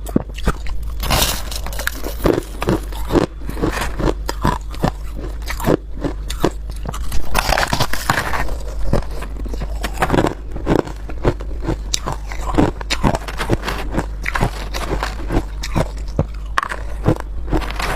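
Ice being bitten and chewed close to the microphone: a dense run of sharp, brittle crunches and cracks, a few each second, over a steady low hum.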